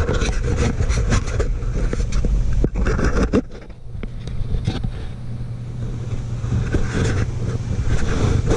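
Handling noise as a camera is fitted and worn: rubbing, scraping and short knocks on the microphone over a steady low rumble.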